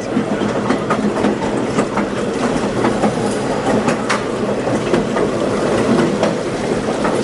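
Moving passenger train heard from on board: a steady rolling rumble with a scattering of sharp wheel clicks over rail joints and a low steady hum.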